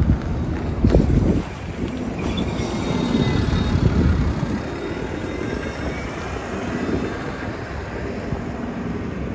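A heavy vehicle, a city bus, rumbling past, with a loud surge about a second in and a faint high whine a couple of seconds in. Wind buffets the microphone.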